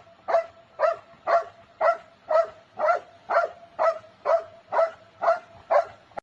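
A dog barking over and over in a steady rhythm, about two short barks a second.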